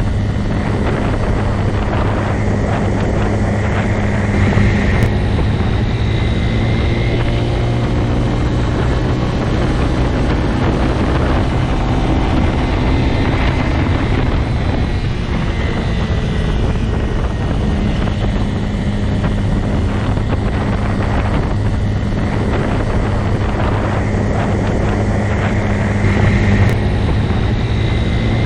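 Motorcycle engine running steadily, its pitch holding fairly even throughout.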